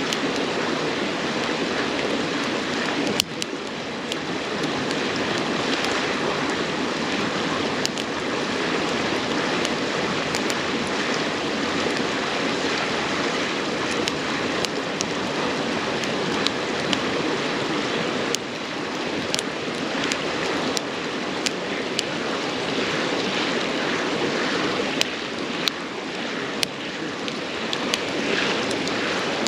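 Burning firewood in a campfire crackling, with scattered sharp pops, over the steady sound of a babbling river.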